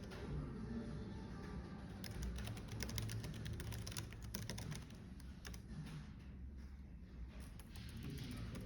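Typing on a computer keyboard: quick runs of keystrokes that thin out about five seconds in to a few scattered taps.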